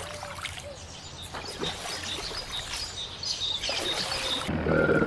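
Nature ambience sound effect: small birds chirping over a faint trickle of flowing water. Near the end, a louder, steady low hum cuts in.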